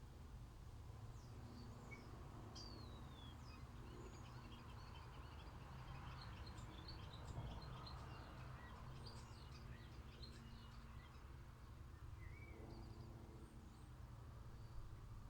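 Wild garden birds chirping and calling faintly, with many short high chirps and one falling call; the chirping is busiest in the middle. A steady low rumble of background noise runs underneath.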